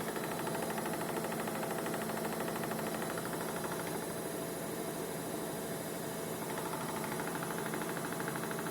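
Vestel washing machine in its final spin, the drum and motor running at a steady speed: an even whirring hum with a fast, fine pulsing.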